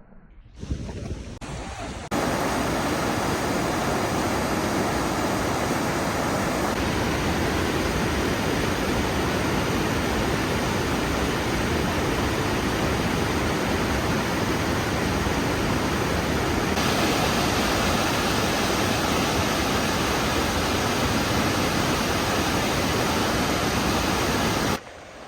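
Steady, loud rushing noise that cuts in about two seconds in and stops abruptly near the end.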